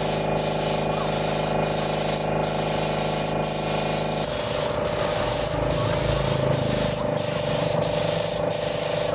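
Compressed-air spray gun hissing steadily, likely while spray-painting a restored machine, over a steady mechanical hum that changes pitch about four seconds in. Sharp ticks come roughly once a second.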